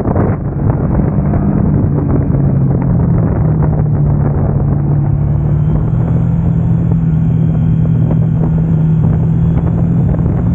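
Triumph Tiger Sport 660's three-cylinder engine running at a steady, unchanging pitch, mixed with heavy wind rush. The loudness dips briefly about half a second in.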